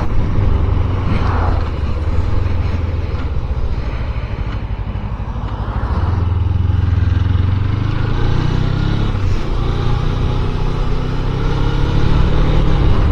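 Suzuki Inazuma 250's parallel-twin engine running while the motorcycle is ridden. It eases off for a few seconds, picks up again about six seconds in, and rises in pitch near the end.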